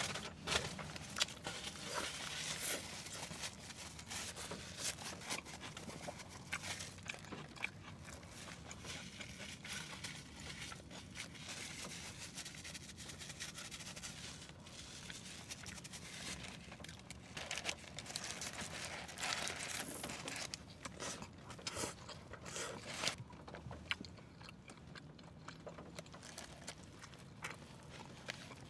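Close-miked chewing and crunching of a Burger King Whopper and crisp fried food, with many short wet mouth clicks and crackles of bites.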